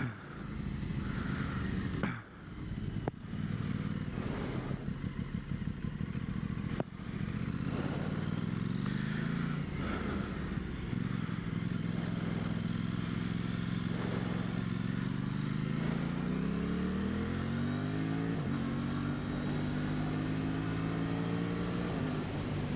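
2023 Aprilia Tuono 660's parallel-twin engine under way. The revs climb in gear a few times, drop sharply with a gear change about three quarters of the way through, then the engine runs steadily. A few sharp clicks come in the first few seconds.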